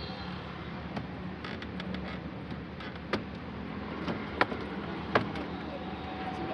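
A handful of sharp clicks and knocks, the loudest three a little after three, four and five seconds in, over a steady background hum.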